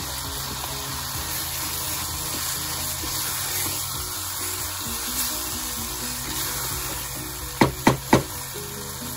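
Vegetables and chopped tomatoes sizzling in a saucepan while being stirred with a wooden spoon, over background music. Near the end, three sharp knocks in quick succession.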